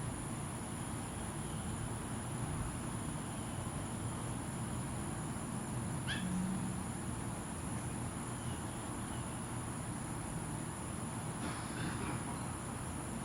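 Insects droning steadily at a high pitch over a low, steady background rumble, with a single short bird chirp about halfway through and a few fainter chirps later.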